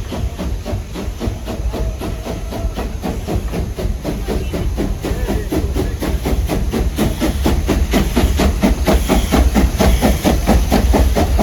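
Steam locomotive chuffing in an even rhythm over a low rumble from the train, the beats coming slightly faster and growing louder from about halfway through.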